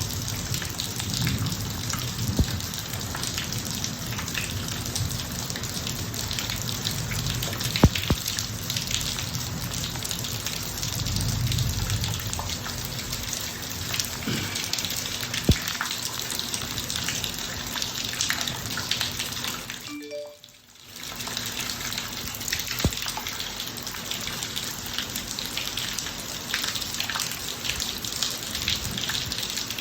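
Steady rain falling on a driveway, with low rumbles of distant thunder at the start and again about eleven seconds in, and a few sharp drop impacts. The sound briefly cuts out about twenty seconds in, then the rain resumes.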